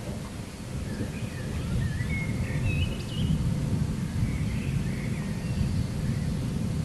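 Distant thunder rumbling low and slowly building, with birds chirping briefly in the middle.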